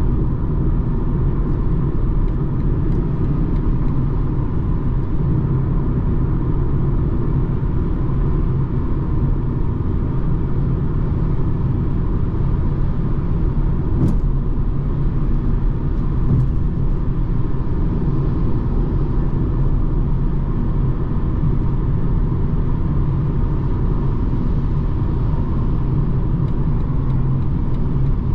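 BMW 220d xDrive F44 Gran Coupe on the move, a steady low rumble of its diesel engine and the road, with a single click about halfway through.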